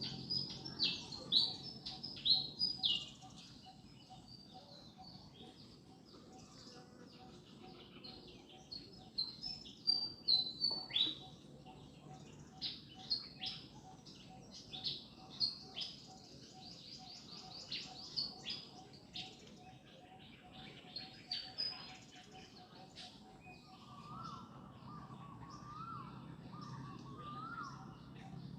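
Birds chirping: clusters of short, high, downward-sweeping chirps repeated throughout, and near the end a run of lower, rising-and-falling call notes.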